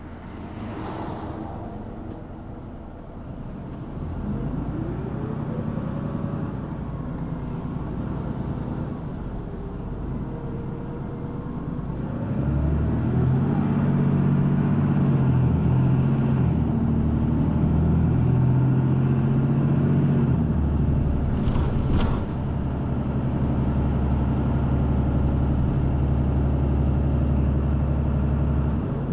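City bus heard from inside, its diesel engine pulling away and running under load, the pitch rising as it gathers speed and then holding steadier and louder. A short hiss comes about a second in, and another around 22 seconds.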